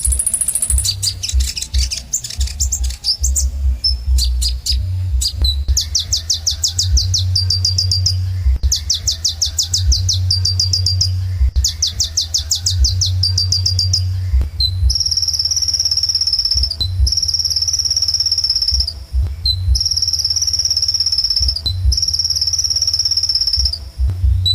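Kolibri ninja sunbird singing: fast, high-pitched runs of rapidly repeated notes, then long held high notes in phrases of about two seconds with short breaks between them. A steady low hum runs underneath.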